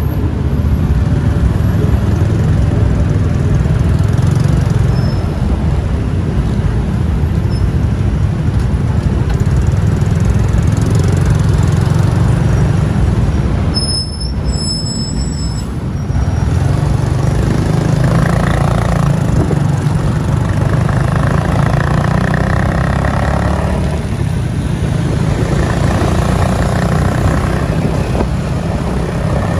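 Riding a motorbike through city traffic: a steady low road and engine rumble, with a brief drop in level about halfway through and another vehicle's tone passing a few seconds later.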